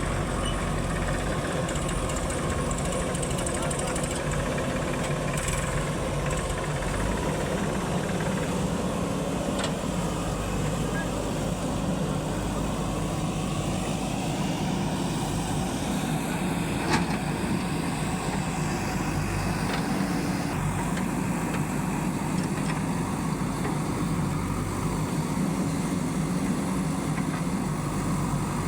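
Heavy diesel engine of a working machine running steadily at an even speed, with a single sharp knock about seventeen seconds in.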